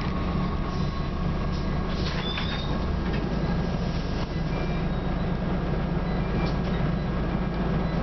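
Scania Omnicity single-decker bus running: a steady low drone from its diesel engine and drivetrain, with a lower hum that fades about three seconds in and a few light rattles.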